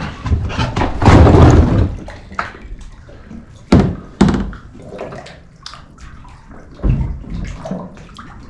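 Water sloshing and slapping, with a few sharp hollow thumps: two close together about four seconds in and another near seven seconds.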